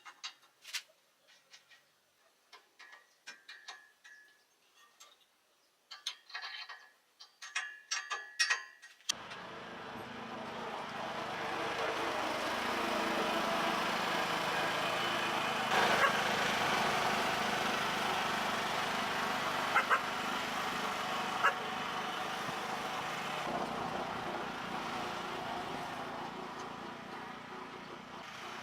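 Scattered light clicks and ticks for the first several seconds. Then, about nine seconds in, a homemade garden tractor's engine comes in abruptly and runs steadily, with a few sharp ticks over it.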